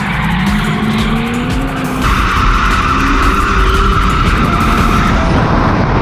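Ford AU Falcon drift car engine running at high revs, its pitch climbing, then tyres squealing in a long slide from about two seconds in.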